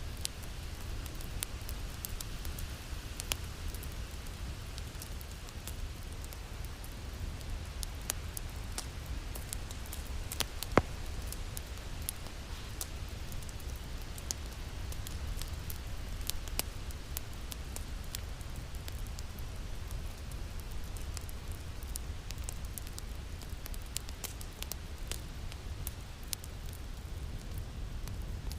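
Wood fire crackling in a fireplace: scattered sharp clicks and pops over a steady low rumble, with one much louder pop a little before the middle.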